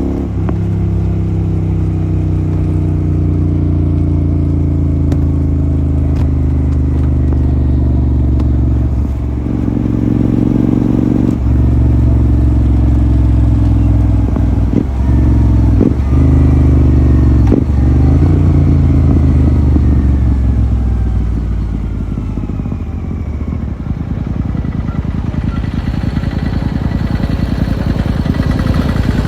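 Royal Enfield GT 650's parallel-twin engine through a Red Rooster aftermarket exhaust, running under way with a deep, steady note. The note breaks off briefly several times around the middle. It eases into a lower, rougher sound in the last third.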